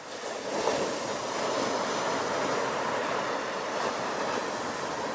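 Sea waves breaking on the shore: a wave crashes about half a second in, then the surf rushes on steadily.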